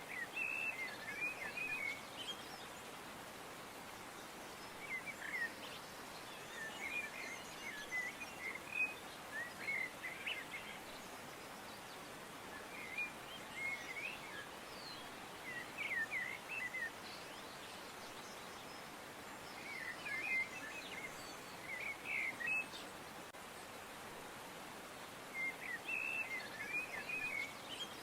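Small birds chirping in short bursts of quick, twittering notes every few seconds, over a steady soft hiss of outdoor background noise.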